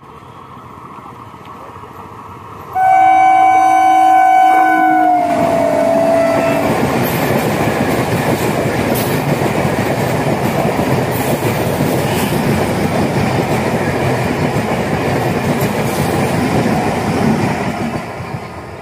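Indian Railways passenger train passing close by: its horn sounds loudly for about three and a half seconds, dropping in pitch as the front goes past. The coaches then rumble by with their wheels clattering on the rails, fading near the end.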